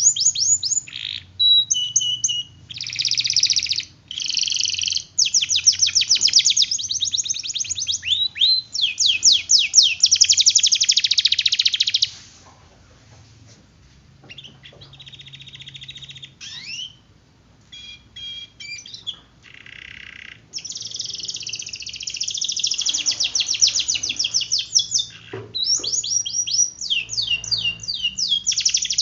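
Domestic canary singing long, fast rolling trills. A softer stretch of scattered short notes comes about halfway through before the dense trilling resumes.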